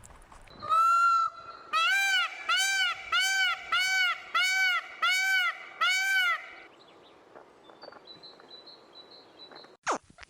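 An animal's calls: one held note, then a run of seven short notes that each rise and fall in pitch, evenly spaced at about one and a half a second. Faint high chirps follow, and a few sharp clicks come near the end.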